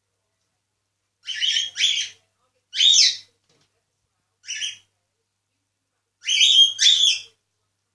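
Pet cockatiel giving six short, rough chirping calls in four groups: a pair, two single calls, then a pair near the end.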